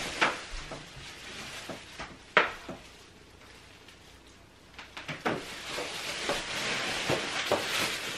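Packaging rustling and crinkling as shopping items are handled and pulled out, with a few sharp knocks in the first couple of seconds and steady crinkling in the last three.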